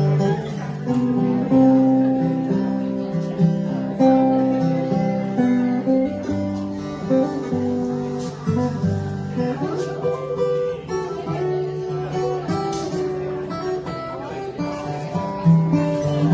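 Acoustic guitar playing an instrumental passage, with plucked melody notes ringing over sustained lower notes.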